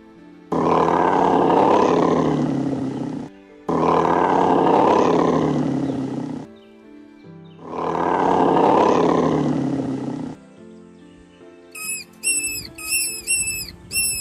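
A large animal roaring: three long, rough roars of about three seconds each. A run of short, high, repeated chirps starts near the end.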